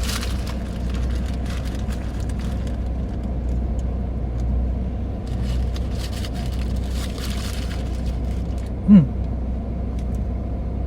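Steady low rumble of an idling car engine, with faint small clicks and rustles. About nine seconds in, a short, low, falling "mm" hum from a person's voice is the loudest sound.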